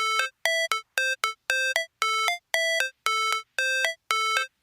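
Synthesised electronic beeps in a repeating pattern, about two a second: each a longer low note followed by a quick higher blip, like a ringtone or an intro jingle.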